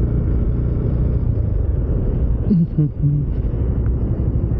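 Motorcycle engine running at low road speed in traffic, a steady low rumble. About two and a half seconds in comes a brief pitched sound.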